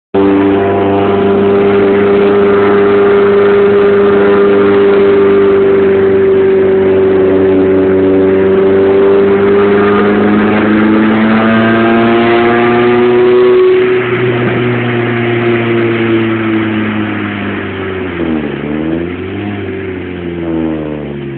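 Honda Civic VTi's B16A2 1.6-litre VTEC four-cylinder with its rear muffler removed, held at high revs with a loud, raw exhaust note that climbs slightly for about fourteen seconds. The note then drops and falls in pitch, followed by a few quick dips and rises in revs near the end.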